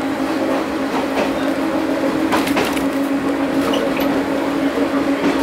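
Choshi Electric Railway train running along the line, heard from inside the carriage: steady rolling noise with a constant hum, and a quick run of clicks as the wheels pass over rail joints a little over two seconds in.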